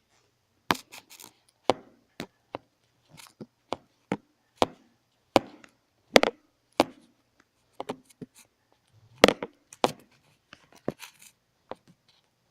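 A run of sharp, irregular knocks and taps, about twenty of them, as hard objects are handled and set down on a surface.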